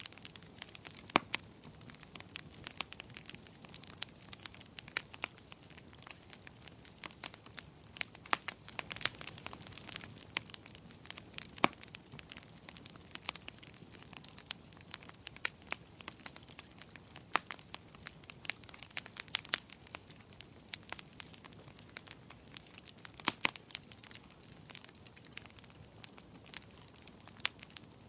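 Wood fire crackling: irregular sharp pops and snaps over a soft steady hiss of burning.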